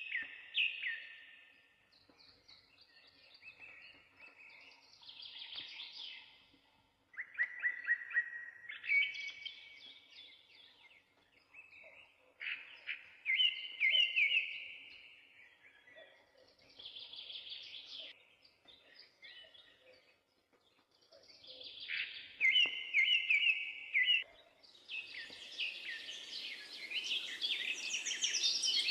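Birds singing in short chirpy trilled phrases with brief pauses between them. A steady hiss comes in under the song near the end.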